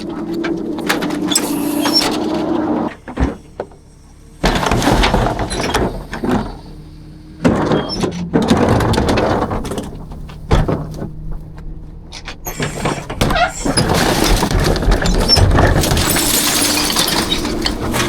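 Rear-loader garbage truck at work: repeated loud crashing and clattering of trash with sharp knocks and squeals. A steady hum is heard at the start, and the noise breaks off briefly twice.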